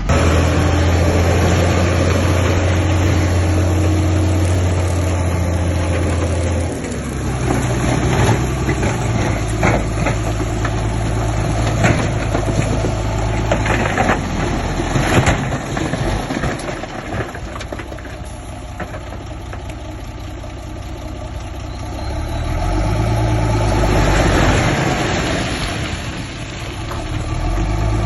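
Heavy diesel engines of earthmoving machines, a Shantui crawler bulldozer and dump trucks, running and changing load. A steady low drone for the first several seconds gives way to shifting engine sound with scattered knocks and clanks through the middle.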